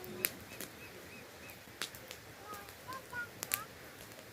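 A few sharp crackles from a wood campfire and short, repeated bird chirps over a faint steady rush of falling water.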